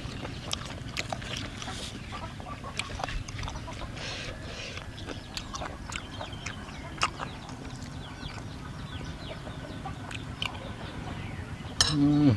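Chickens clucking and peeping in a yard, with scattered small clicks and knocks over a steady low background.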